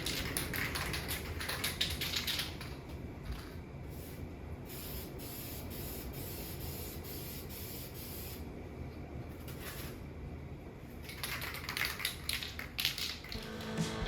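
Intermittent hissing in stretches of a few seconds over a low background rumble.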